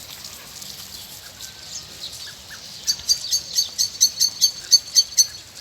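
A bird calling: a fast run of about a dozen sharp, high notes, roughly five a second, starting about halfway through. Fainter chirps from other birds come before it.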